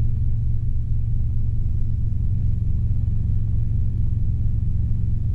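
Robinson R22 helicopter's engine and rotors droning steadily in level cruise, heard from inside the cabin: an even low rumble with no change in pitch.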